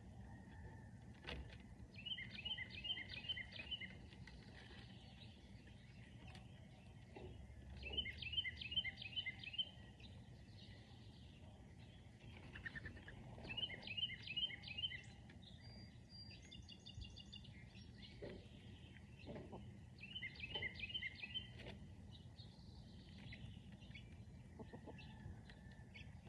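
A bird sings the same short phrase about every six seconds, each a quick run of clear notes. A different, higher bird call breaks in briefly about two-thirds of the way through, over a faint low background rumble.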